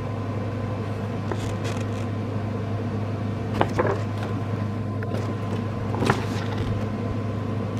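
Steady low machine or appliance hum, with a few faint short clicks or rustles about four seconds in and again about six seconds in.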